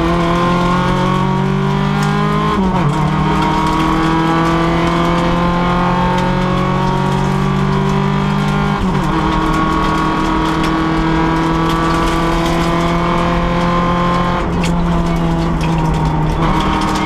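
Renault Clio rally car's engine heard from inside the cabin, running hard at steady high load. Its pitch climbs slowly and then drops sharply three times, at about 3, 9 and 14½ seconds in, as it goes up through the gears.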